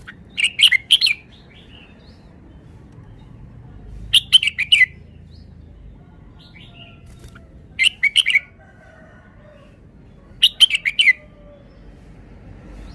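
Red-whiskered bulbul singing: four short phrases of a few quick notes each, spaced about three and a half seconds apart.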